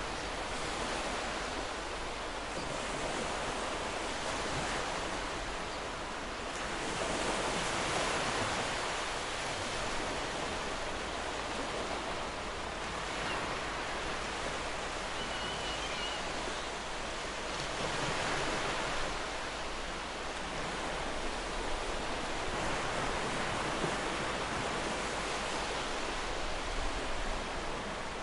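Ocean surf on a beach: a continuous wash of breaking waves that swells and eases every several seconds as each wave comes in.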